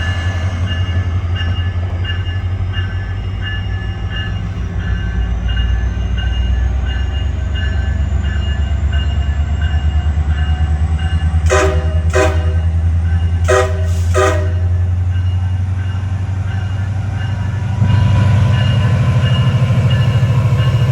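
MARC diesel locomotive running with a steady deep rumble, while a train horn gives four short blasts in two pairs a little past halfway as a horn salute. The rumble grows louder for the last few seconds.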